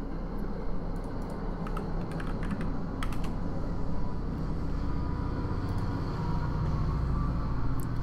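Low rumble of a passing train, swelling in the second half. A short run of keyboard typing clicks about two to three seconds in.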